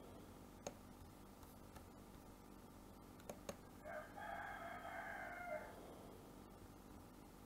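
A single drawn-out bird call lasting nearly two seconds, preceded by a few computer mouse clicks.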